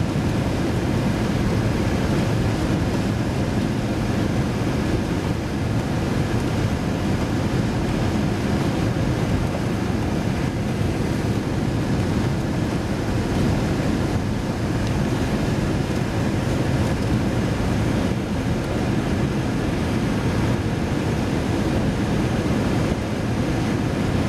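Steady rumble of a vehicle driving, with tyre and road noise from a slushy road.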